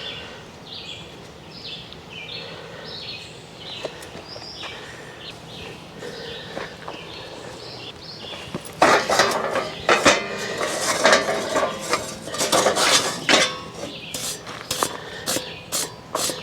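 Repeated short bird calls. About nine seconds in, loud clattering and clinking of dishes, pots and cutlery begins as camp kitchen gear is cleaned up.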